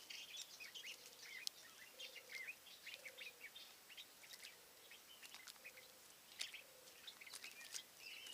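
A chorus of wild songbirds: many short high chirps and trills overlapping, with a faint low note repeating about once a second beneath them.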